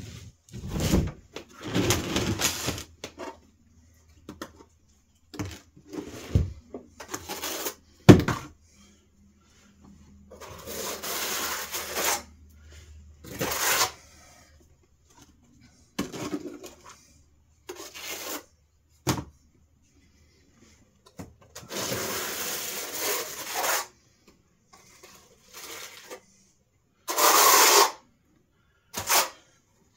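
Irregular scraping and rustling strokes, each a fraction of a second to about two seconds long, from spreading tile-type adhesive and handling stone wool insulation boards, with one sharp knock about eight seconds in.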